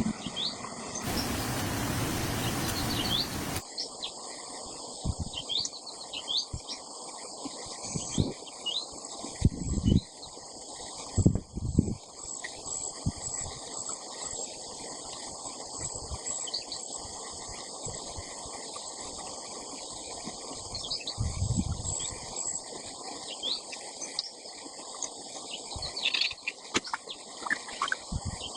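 Outdoor ambience of birds chirping in short rising calls over a steady insect drone, with scattered low thumps. A loud rushing noise fills a couple of seconds near the start.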